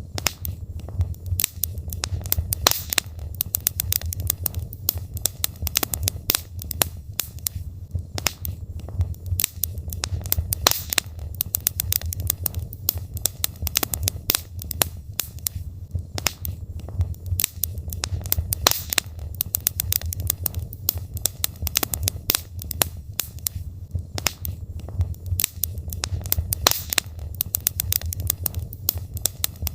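Wood logs burning in a fireplace, crackling and popping in quick irregular snaps over a steady low rumble of the fire.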